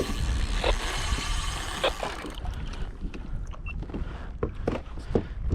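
Water splashing and lapping against a kayak hull, with wind on the microphone. The steady hiss drops away about two seconds in, leaving scattered short splashes and knocks.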